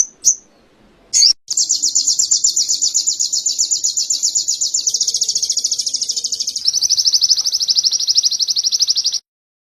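A small songbird singing canary-style song: a few short, sharp high chirps, then a long, fast, even trill of high notes that steps down a little in pitch about two-thirds of the way through and stops abruptly near the end.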